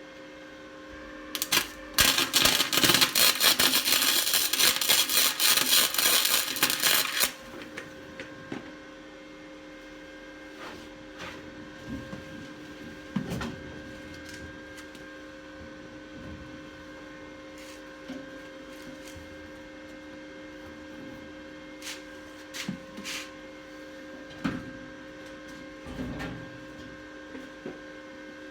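Flux-core arc welding with a Harbor Freight Titanium Flux 125 welder: a loud crackling arc for about five seconds, starting about two seconds in. Afterwards a steady hum with scattered light clicks.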